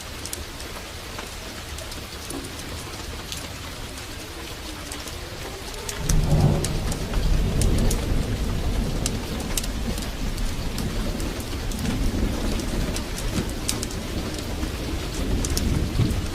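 Heavy rain falling steadily, with a deep roll of thunder that swells suddenly about six seconds in and keeps rumbling to the end. Scattered sharp crackles sound over the rain.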